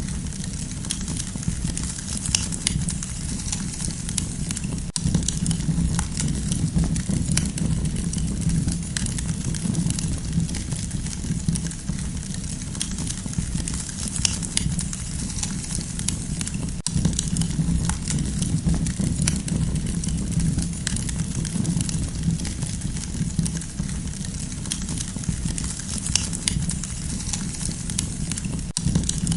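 Campfire crackling: frequent small pops and snaps scattered over a steady low rumble of the burning wood.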